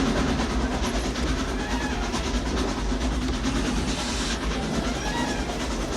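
Steam locomotive running at speed on rails: a steady rumble with rail clatter, and a brief hiss about four seconds in.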